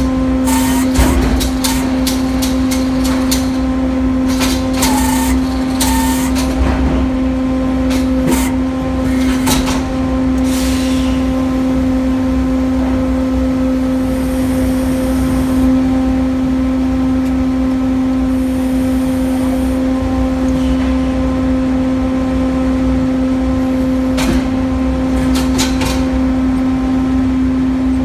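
Hurdle sawmill running with a steady, even drone from its power unit, with a series of sharp clanks and knocks in the first ten seconds and again near the end, and two brief hisses in the middle.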